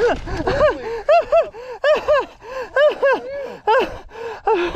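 A person's short, rising-and-falling gasps and groans, repeated a few times a second: a mountain-bike rider winded and hurting just after a crash.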